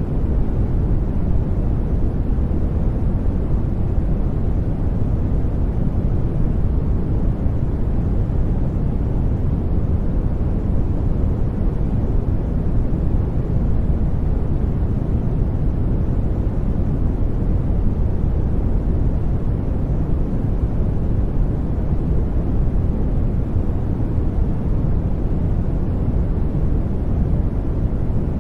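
Brown noise: a steady, deep rumbling hiss with most of its weight in the bass, fading smoothly toward the treble, with no change throughout.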